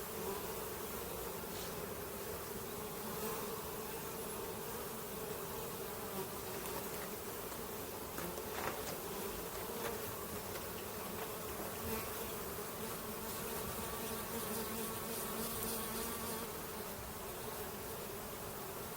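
Honeybees of a hive colony buzzing together in a steady, dense hum.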